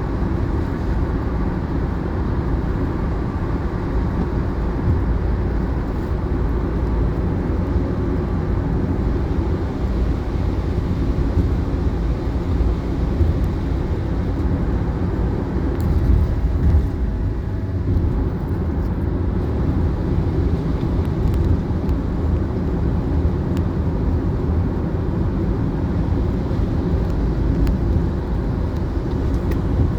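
A steady low rumble, like a vehicle on the move, holding even throughout.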